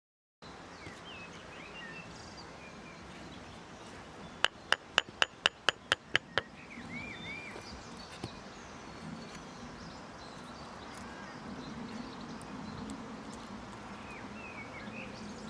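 A hammer striking about nine quick, even blows over two seconds, with small birds chirping before and after.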